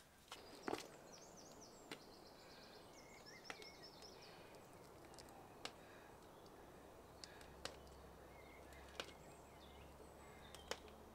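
Near silence: faint outdoor ambience with distant birds chirping in short runs, mostly in the first half, and a few faint scattered clicks.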